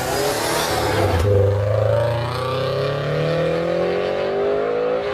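A car's engine accelerating hard, its pitch climbing steadily for about four seconds after a rushing start.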